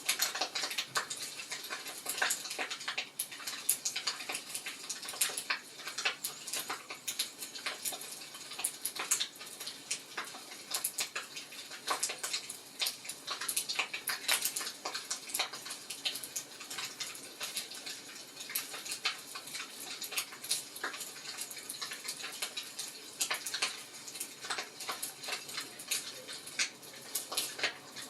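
Fire in a fireplace crackling: irregular sharp snaps and pops over a soft, steady hiss.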